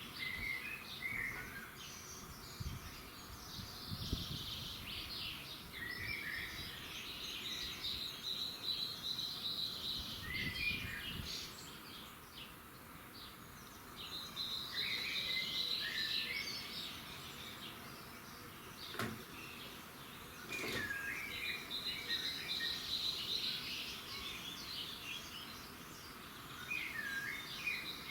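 Birds singing at dawn: short song phrases come every few seconds over a steady high trill that fades in and out. Two brief faint knocks come in the last third.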